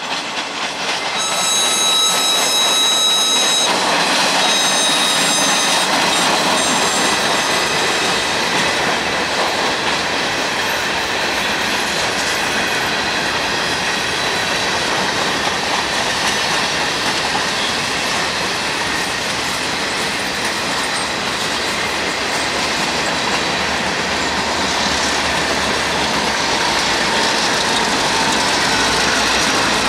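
Freight train shoving past caboose-first. A high-pitched air whistle sounds for the grade crossing near the start: two long blasts and one short. After that come the steady clatter and squeal of covered hopper car wheels on the rail joints, and near the end the low running of the EMD diesel locomotives passing.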